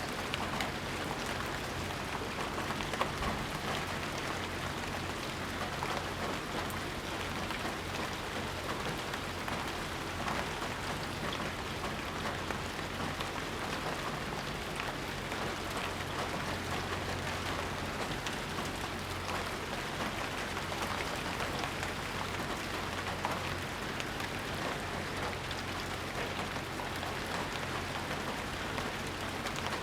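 Steady heavy rain falling and pattering on surfaces, with many small drop impacts and no thunder.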